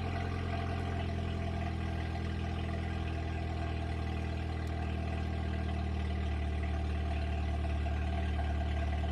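2009 Ford Focus 2.0-litre four-cylinder engine idling steadily soon after a cold start, running with the cat-back exhaust removed, so the exhaust leaves open just after the catalytic converter. The note holds even, with no revving.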